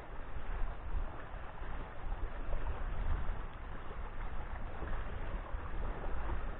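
Wind buffeting the microphone: a steady low rumble under an even rush of noise.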